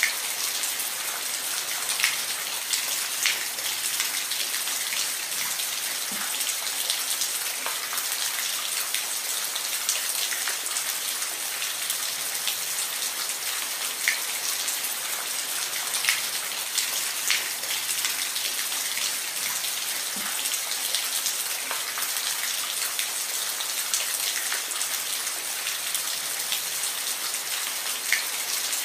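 Steady rain with a dense hiss, and individual drops ticking sharply on a surface every second or so.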